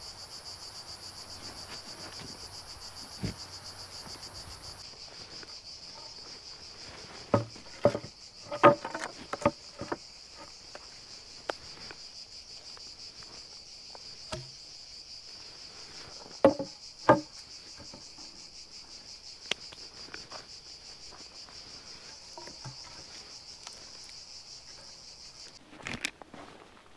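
Insects shrilling steadily in a high, finely pulsing drone that stops abruptly near the end. Two clusters of sharp, loud knocks or cracks, one about seven to ten seconds in and another about sixteen seconds in, are the loudest sounds.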